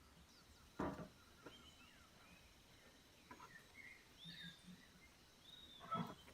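Faint birdsong, short high chirps and calls scattered throughout, with two brief louder crackling or knocking sounds, one about a second in and one near the end.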